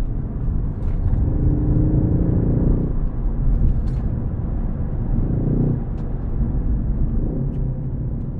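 Ford Focus ST engine and road rumble while being driven. The engine note climbs under acceleration about a second in and again around five seconds in, dropping back between the pulls.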